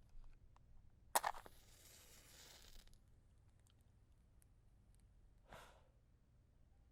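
A wooden match struck against the box with a sharp scrape, flaring into a hiss of about a second and a half. Some four seconds later comes a short soft rush of noise as the match is put out.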